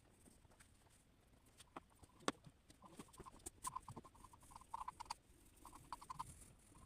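Faint drawing sounds: scattered taps of a drawing tool, one sharper than the rest a little after two seconds, then from about three seconds on, clusters of quick, short squeaky strokes across the drawing surface.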